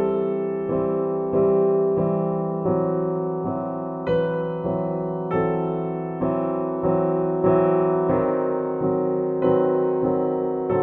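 Slow solo piano background music, single notes and chords struck about once a second, each ringing and fading before the next.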